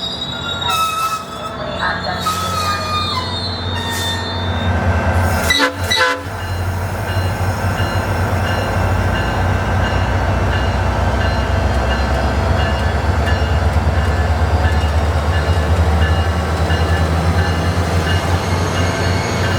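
A diesel passenger train at a station platform: thin, high wheel squeal in the first few seconds, a couple of sharp bangs about six seconds in, then a steady, pulsing low rumble from the diesel locomotive.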